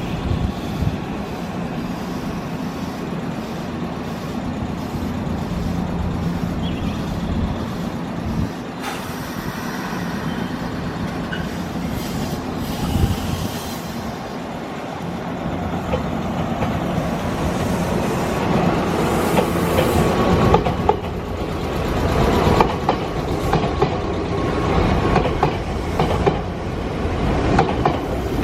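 Nankai electric train running through the station, its wheels clicking over rail joints with a low hum underneath. It grows louder and the clicks come thicker from about two-thirds of the way through.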